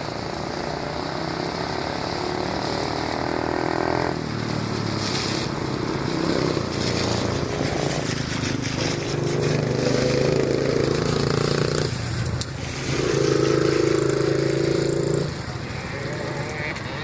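Dirt bike engine running and revving, its pitch rising and falling several times, loudest and highest a little after halfway through before easing back near the end.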